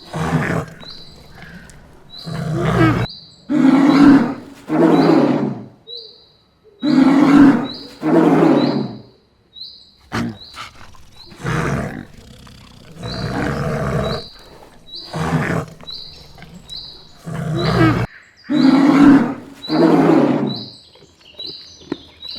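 Polar bear growling and roaring in a series of rough bursts about a second long, often two close together, with short pauses between.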